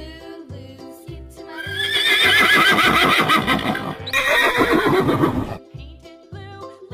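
A horse whinnying loudly, one long wavering neigh of about four seconds with a brief break partway through, over background music with a steady beat.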